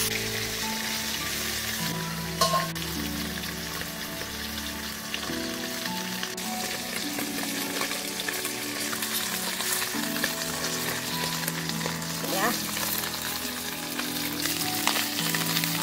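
Food sizzling in hot oil in a steel kadai on a wood-fired clay stove, a steady crackling hiss, with a few sharp clinks of a metal spatula against the pan.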